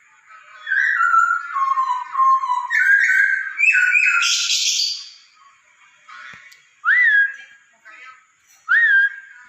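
Poksay Hongkong (laughingthrush) singing: a run of varied clear whistled phrases, then, near the end, two single whistles that sweep up and hold.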